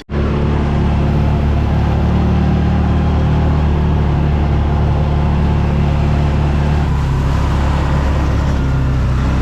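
Vehicle engine running steadily, heard from inside the cab, with a constant low drone.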